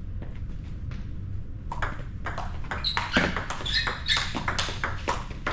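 Table tennis rally: the ball clicking off the bats and the table in quick, irregular succession, starting about two seconds in.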